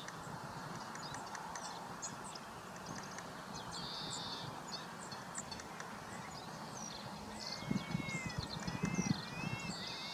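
Outdoor ambience with several small wild birds calling: scattered short high chirps, a brief buzzy call repeating every few seconds, and a run of quick arched notes near the end. A cluster of low knocks comes about eight to nine seconds in.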